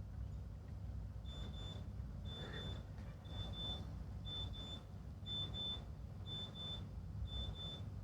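High-pitched electronic double beep, repeating about once a second, over a steady low rumble.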